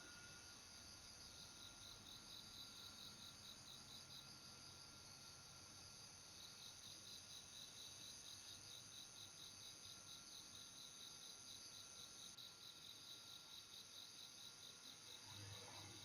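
Faint night insects, crickets chirping in a rapid, regular pulsing rhythm over a steady high-pitched insect drone; the chirping stops for about two seconds around four seconds in.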